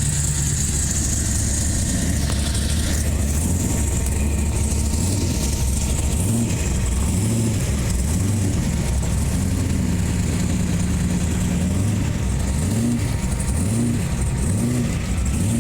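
Car engine running at a low idle, then revved in a series of short blips through the second half, each rising and falling in pitch.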